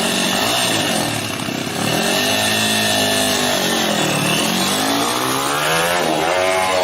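Motorcycle engine running hard, its revs swinging: the pitch sags to a low point about four seconds in, then climbs again near the end. The throttle is said to be stuck open.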